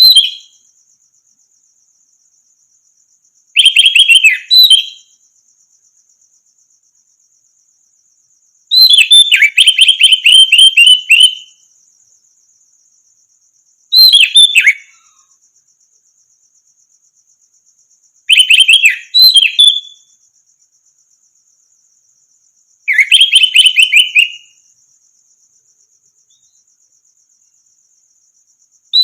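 Orange-headed thrush singing in separate loud phrases of rapid, varied chirping notes, about one phrase every four to five seconds, the longest nearly three seconds. A faint steady high buzz runs underneath.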